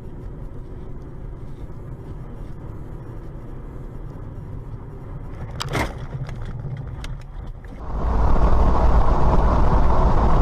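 Car driving noise picked up by a dashcam: a steady low engine and road rumble, a sharp knock about six seconds in, then much louder, rushing road noise from about eight seconds on.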